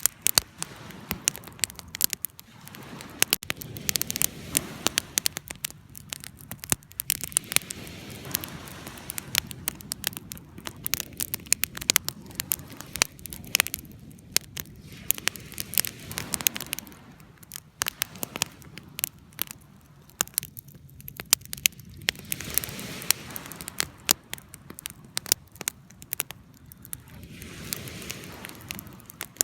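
Wood fire burning with frequent sharp crackles and pops over a soft rushing of flames that swells and fades every few seconds.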